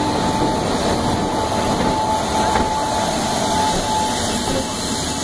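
An Indian Railways WAP-4 electric locomotive and its train rolling along the platform line: a steady rumble of wheels and running gear, with a faint thin whine over the first few seconds.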